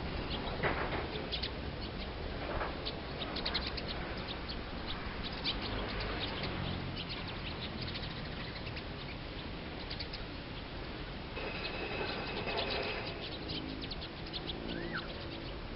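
Small wild bird giving many short, high chirps in quick irregular series, over a steady low background rumble.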